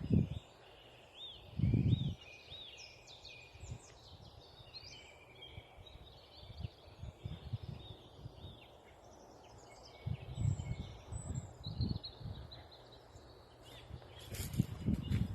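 Several songbirds singing, with many short chirps and repeated arching notes, broken up by low rumbling thumps on the microphone a few times.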